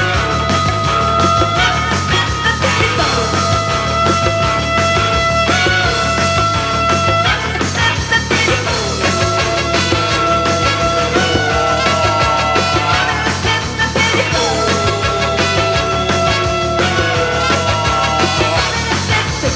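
Rock band playing live: an instrumental passage with long held high notes over a steady driving beat, no vocals yet.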